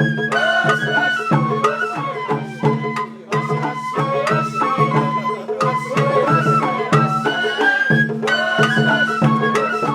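Sawara bayashi festival music: a bamboo flute (shinobue) melody wavering and stepping over regular taiko drum strokes, with a steady low hum beneath.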